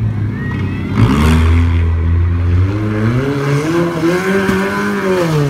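Demolition derby cars' engines revving, their pitch sliding up and down and climbing to a high rev before dropping near the end, with a sudden bang about a second in.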